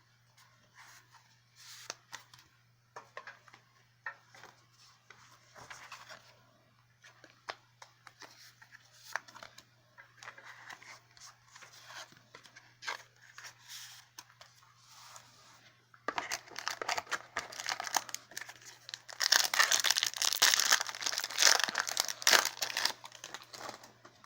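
Trading cards handled and shuffled through with soft clicks and rustles, then, about two-thirds in, a foil booster pack wrapper crinkling loudly as it is torn open.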